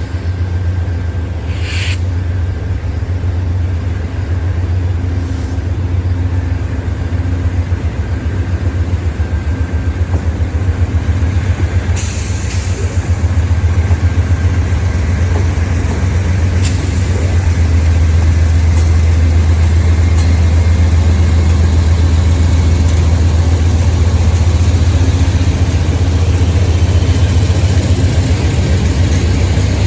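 Diesel freight locomotive engine running with a steady low drone that grows louder about halfway through, with a few brief sharp hisses or clanks.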